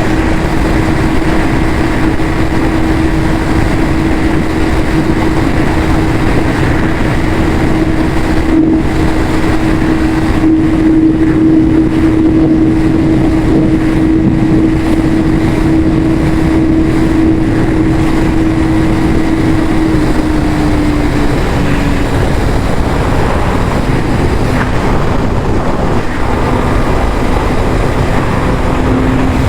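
Yamaha YZF-R6's inline-four engine on its stock exhaust, running steadily at constant revs, the pitch easing a little lower about two-thirds of the way through.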